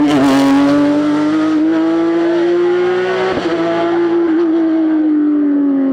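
Porsche 911 GT3 rally car's flat-six engine running hard at high revs, its note climbing slowly, dipping briefly about three seconds in, then easing down.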